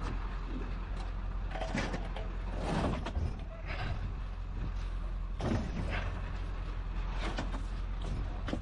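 Sheet-metal water heater being shoved and slid up into a truck bed: a handful of irregular scrapes and clunks of metal against metal, over a steady low hum.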